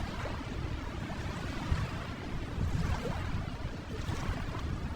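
Steady wash of ocean waves, a soft continuous rushing of surf.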